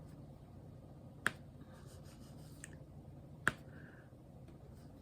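Two sharp clicks about two seconds apart, from a diamond painting drill pen tapping resin drills onto the canvas, with a few fainter ticks between them.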